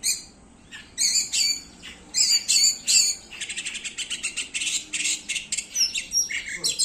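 Oriental magpie-robin (kacer) singing: loud separate phrases of sweeping whistled notes, then from about three seconds in a fast, unbroken run of short rapid notes.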